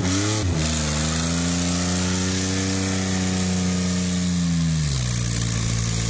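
Truck engine revving: a quick blip, then held at high revs for about four seconds before dropping back to a lower steady speed near the end.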